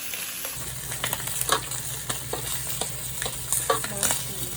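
Chopsticks and spoons clicking against dishes during a meal, several sharp clicks at irregular intervals, over a steady hiss and a low hum that starts about half a second in.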